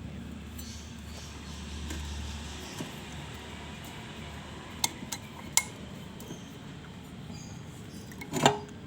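Metal parts of a dismantled automatic transmission clinking as they are handled: a few sharp clinks around the middle and a louder knock near the end, over a faint low hum in the first few seconds.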